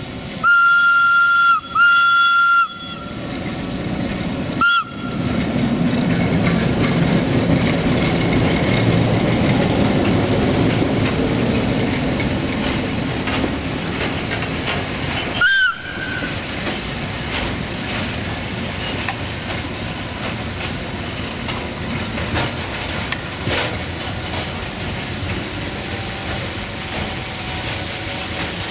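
Whistle of a CFR 060-DA (LDE2100) diesel-electric locomotive: two long blasts in the first three seconds, a short blast near five seconds and another around sixteen seconds. Between the blasts, the steady rumble and clickety-clack of the locomotive and its loaded tank wagons rolling past on the rails builds up and then holds.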